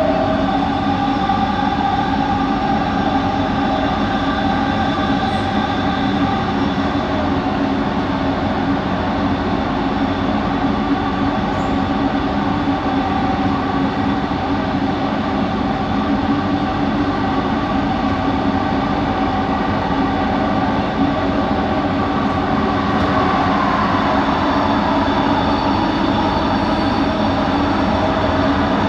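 Bombardier Innovia ART 200 metro train running between stations, heard from inside the car: a steady running rumble with several steady whining tones from its linear induction motor drive, which the uploader calls a weird motor noise. About two-thirds of the way through one of the tones bends slightly in pitch.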